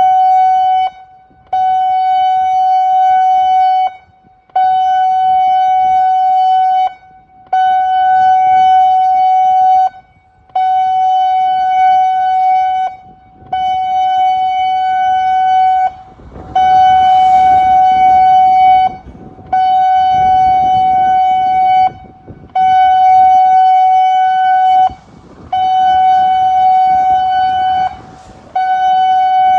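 Severnside flood warning siren No. 7 sounding on test after a repair: a loud, steady single-pitch tone that does not rise or fall, pulsing on for about two and a half seconds and off for about half a second, over and over. Some background rumble comes in midway, and a brief sharp sound is heard near the end.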